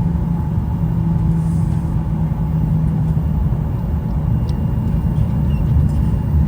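Steady low rumble of a jet airliner heard inside the cabin, its engines running as the plane moves along the ground before takeoff, with a steady hum that weakens about halfway through.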